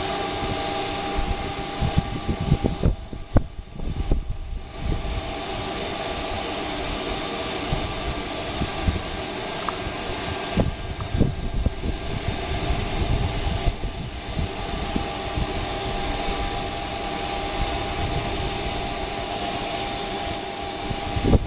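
Jet engines idling on the ground: a steady high-pitched whine over a low rumble, dipping briefly about three seconds in.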